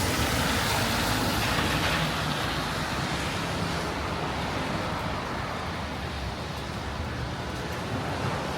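Steady city street noise: passing traffic as a continuous hiss, with a faint low hum in the first half.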